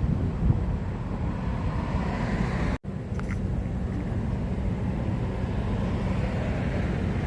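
Steady low rumble of outdoor noise with wind buffeting the microphone, broken by a brief cut to silence about three seconds in.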